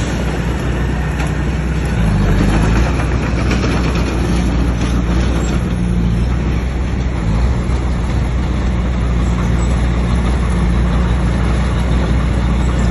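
Bulldozer's diesel engine running steadily and loudly, with a continuous low engine drone.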